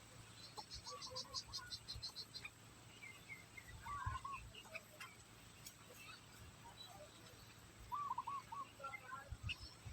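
Faint small-bird chirps, short curved calls coming a few times, with a rapid high-pitched trill of about six pulses a second in the first couple of seconds.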